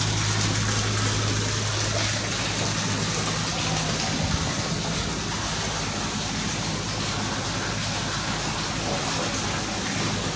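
Steady low machine hum under an even rushing noise, with no distinct events.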